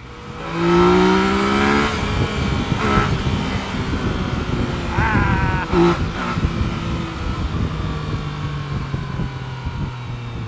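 Yamaha Tracer 900's inline-three engine on the move, revving up in pitch about half a second in and again around five seconds in, then running steadily.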